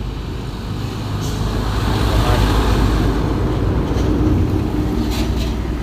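Hino 500 truck's diesel engine roaring under load as the heavily loaded truck climbs, getting louder over the first two seconds and then holding steady.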